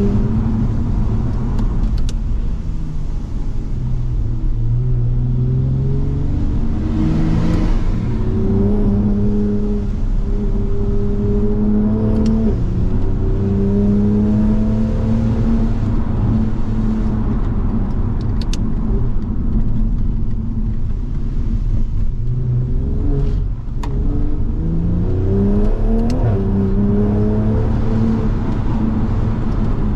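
Toyota Supra MK5's turbocharged straight-six engine under way, its note climbing under acceleration and stepping down several times through gear changes, over a constant rumble of tyres on the road.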